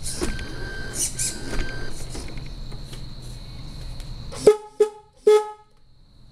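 1/14 RC Scania R470 truck's simulated diesel engine running with reversing beeps, the engine sound cutting off about four and a half seconds in. Three short horn toots follow; they are the loudest sounds.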